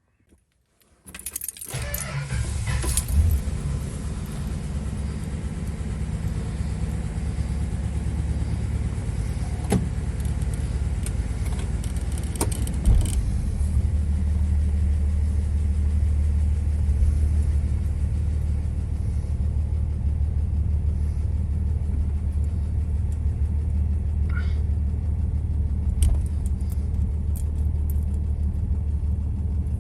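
1963 Dodge Polara's slant-six engine starting about a second in, then running steadily; the owner suspects a spun rod bearing behind its occasional knock. Its low note grows stronger about fourteen seconds in.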